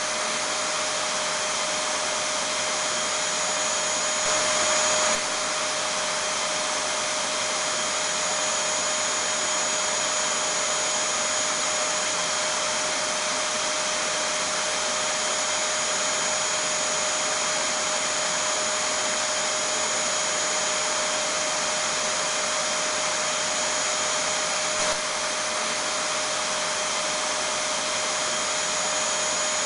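Vacuum cleaner running steadily: a constant rushing hiss over a steady whine, a little louder for about a second around four seconds in.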